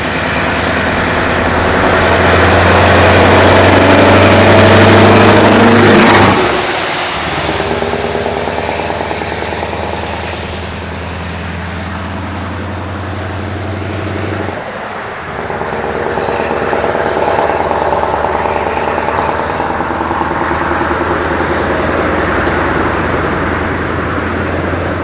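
Scania 143M 450's V8 turbo-diesel pulling away hard and accelerating, loud and clattering. The engine note builds, drops off at a gear change about six seconds in, builds again and drops at a second shift around fifteen seconds in, then pulls on through the next gear.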